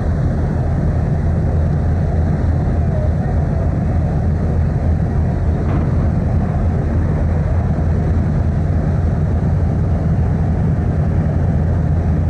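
Car ferry's engines giving a steady, loud low drone as heard on board, with a rushing noise of wind and water over it.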